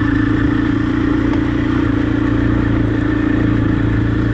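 Husqvarna enduro dirt bike's engine running at a steady speed while riding, holding one even pitch.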